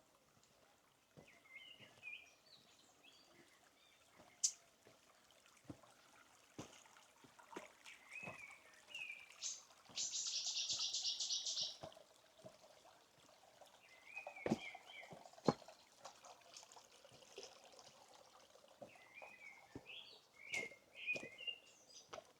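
Birds calling outdoors in short chirping phrases, with a loud, fast rattling trill lasting about two seconds near the middle. Soft footsteps tap irregularly underneath.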